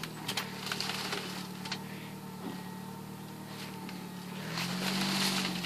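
An engine running steadily, its pitch rising about four and a half seconds in, with a few sharp snaps of wood or twigs in the first two seconds.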